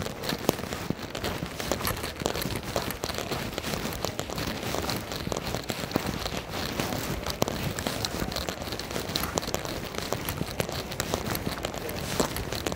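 Steady rain pattering close by, with many small scattered ticks of drops.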